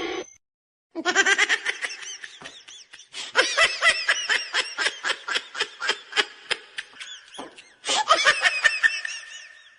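High-pitched laughter in rapid peals, starting about a second in, with a short pause near the end before it breaks out again.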